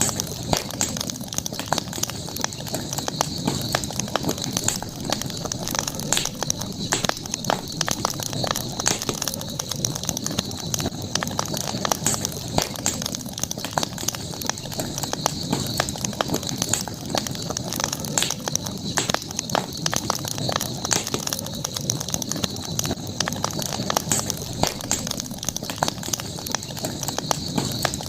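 Campfire burning with constant irregular crackling and popping, over a steady high-pitched drone.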